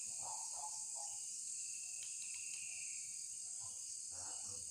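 Night insect chorus of crickets, a steady high-pitched trill, with a few faint brief sounds near the start and near the end.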